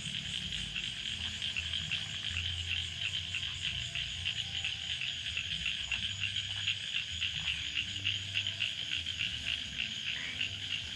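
A steady chorus of frogs calling in fast, dense pulses, with a low uneven rumble underneath.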